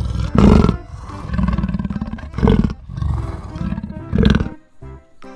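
Big-cat roar sound effects, added for the leopard toy: three roars about two seconds apart over background music.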